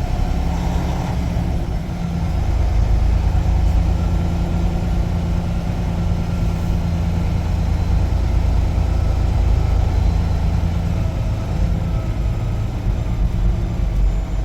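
Semi-truck's diesel engine running steadily, heard from inside the cab while the truck moves slowly toward the scale; it grows a little louder about two seconds in.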